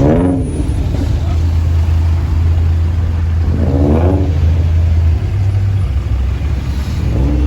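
Car engines running with a steady low drone, and three short revs that rise and fall in pitch: one at the start, one about halfway and one near the end.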